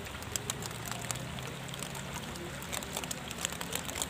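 Rain falling on a river: a steady hiss of water with scattered raindrops ticking sharply close by.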